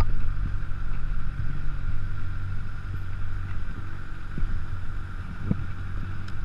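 Honda CBR600F's inline-four engine running steadily at low revs, close to the microphone, as the bike rolls slowly and idles.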